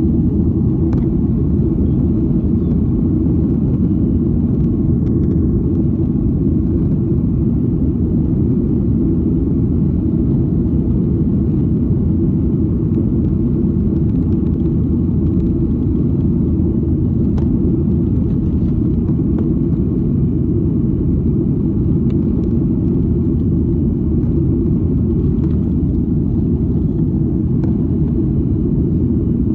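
Steady low rumble of a passenger airliner in flight, engine and airflow noise heard from inside the cabin.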